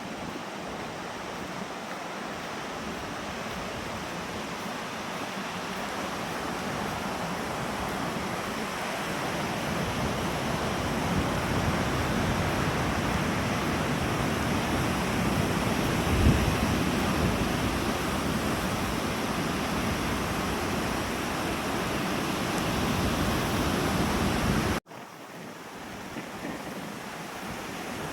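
Loud wind buffeting the microphone over lake waves washing onto the beach, building to a heavy gust about halfway through. Near the end the sound cuts off abruptly and resumes quieter.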